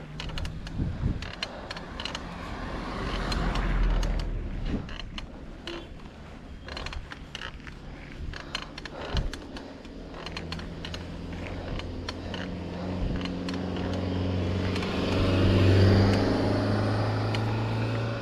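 A motor vehicle's engine drawing near and passing, swelling to its loudest about three-quarters of the way through, over a low rumble and scattered clicks and rattles.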